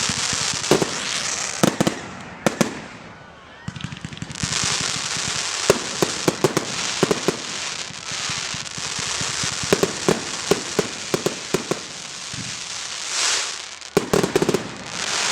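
Fireworks display: many sharp pops and crackles over a steady hiss, coming in waves with a brief lull about three seconds in.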